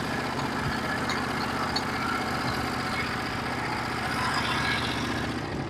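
Norwood HD36v2 bandsaw mill's engine running steadily under load as the band blade cuts through a large pine log.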